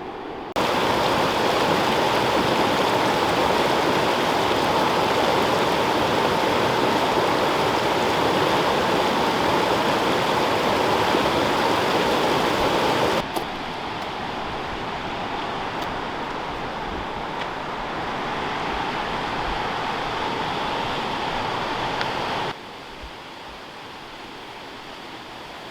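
Steady rush of a waterfall and creek, heard in three short clips joined by abrupt cuts; the first and longest is the loudest, and the later two are quieter.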